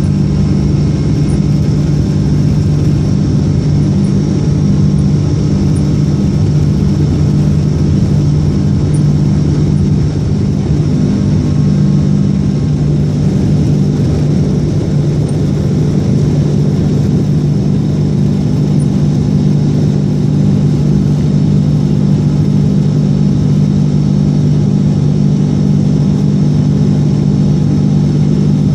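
Boeing 777 jet engines running at steady high power during takeoff, a loud even drone with a strong low hum that holds unchanged throughout.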